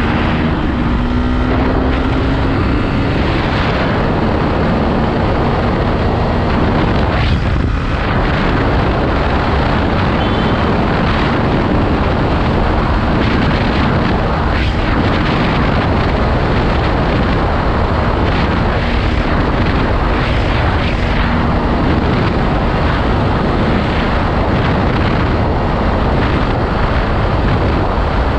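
Hero Xtreme 160R's single-cylinder engine held at high revs near top speed, a steady drone under heavy wind and road rush.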